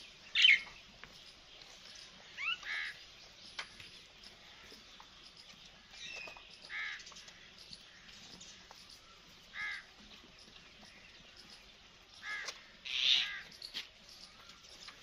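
Birds calling: short, separate calls every few seconds over faint background noise, loudest about half a second in and again near the end.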